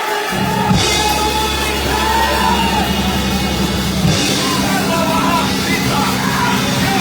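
Live church band music played loud: held bass notes, drums with cymbal crashes about a second in and again around four seconds, and a wavering lead line over the top.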